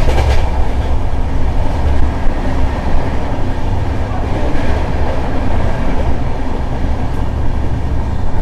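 Passenger train running, a loud, steady rumble of wheels on track heard from on board.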